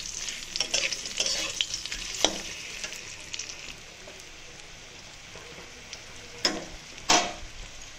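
Sun-dried mango pieces and curry leaves sizzling in hot oil in a kadai while being stirred, the utensil scraping the pan. The stirring scrapes are frequent for the first few seconds, then thin out to a light sizzle, with two louder scrapes near the end.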